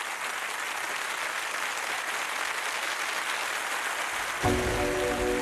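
Studio audience applauding. About four and a half seconds in, the song's intro music comes in with a deep bass hit and held chords.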